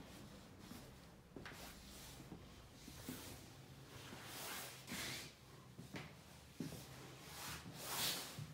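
Faint indoor room tone with a low hum, scattered soft clicks and knocks, and a few brief hissy swells.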